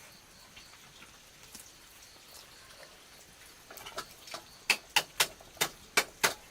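A run of sharp knocks after a quiet stretch. They start softly about four seconds in, then come as about seven loud, evenly spaced strikes, roughly three a second, near the end.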